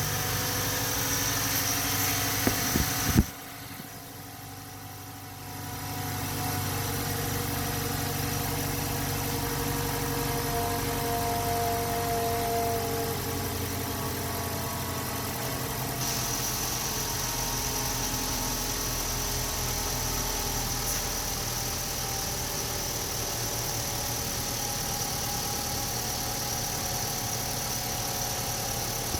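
2012 Toyota Camry 2.5 L inline-four engine running at idle on test. A few sharp clicks come about three seconds in, the sound drops away for a couple of seconds, and then the engine runs steadily again.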